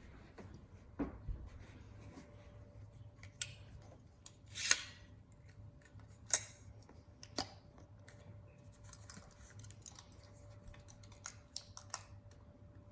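Short, scattered scrapes and clicks of a hand tool on a bus roof hatch, plausibly old cracked sealant being scraped off its edge before re-caulking. One longer scrape comes about five seconds in.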